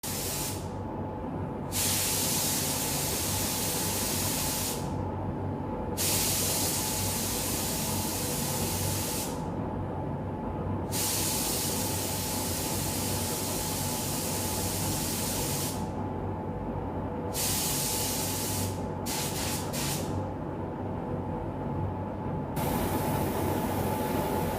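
Paint spray gun spraying in passes of a few seconds each, with short pauses between trigger pulls and a few quick short blasts near the end. A steady machine hum runs underneath.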